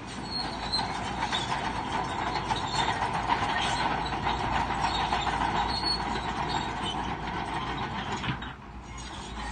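Shantui crawler bulldozer at work: its steel tracks clank and squeal over the steady rumble of the diesel engine. The sound eases briefly near the end.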